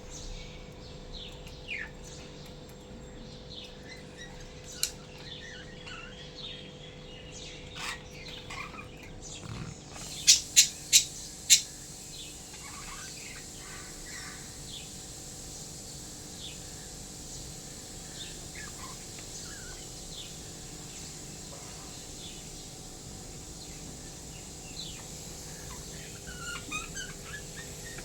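Lovebirds chirping in short, scattered calls. About ten seconds in come four loud, sharp, very brief sounds in quick succession.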